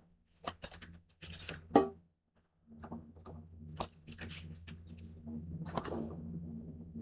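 Small clicks and knocks of paper and clamps being handled while the sides of a folded paper box are clamped, with a low steady hum coming in about three seconds in.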